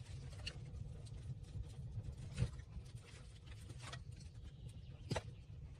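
Wood fire crackling in a clay stove, with a handful of sharp pops over a low steady rumble; the loudest pops come about halfway through and near the end.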